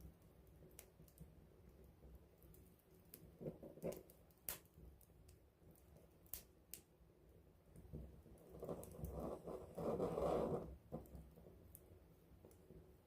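Wood fire crackling up close: scattered sharp pops and snaps at irregular intervals, with a louder rushing noise swelling for about two seconds past the middle.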